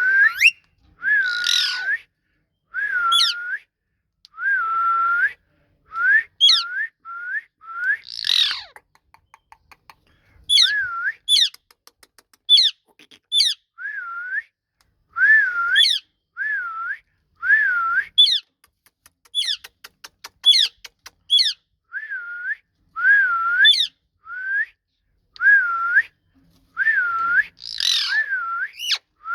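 Ringneck parrot calling in a long series of short whistled notes, about one a second, each dipping and rising in pitch. A few louder, harsher calls come about a second in, midway and near the end, and a quick run of clicks comes just after the middle.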